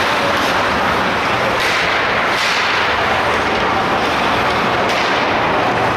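Ice rink game sound: a steady, loud rushing noise with a few faint knocks, such as sticks and puck on the ice.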